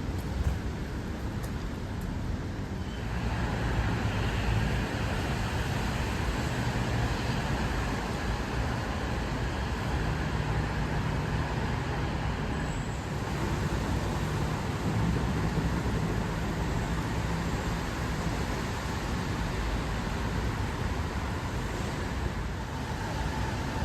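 Steady road-traffic noise with a low rumble of motor vehicles.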